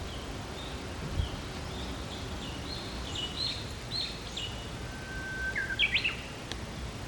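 Wild songbirds singing over a steady background hiss: a run of short high chirps, then near the end one held whistled note that breaks into quick rising notes.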